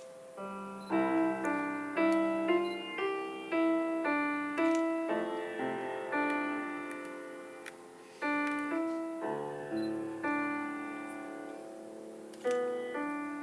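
Solo piano playing a slow melody over chords, each note struck and then fading. The playing softens for a moment around the middle and comes back with a louder chord near the end.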